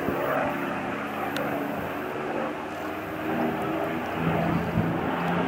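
P-51 Mustang's Merlin V-12 engine and propeller droning as the aircraft flies its display, over wind and outdoor noise; the engine note shifts, with a stronger low tone coming in about four seconds in.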